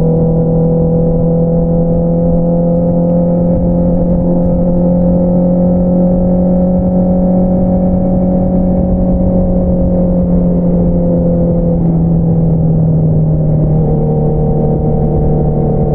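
Honda CBR650R inline-four engine through an Akrapovič single-outlet exhaust, running at a steady cruise. Its note holds a steady pitch, rising a little, then easing off, and drops slightly about fourteen seconds in.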